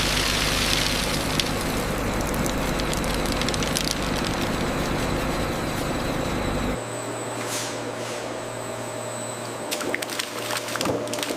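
Steady food-processing machinery noise with a low hum, which changes abruptly about seven seconds in to a quieter machine sound, followed near the end by a run of sharp cracks and clicks.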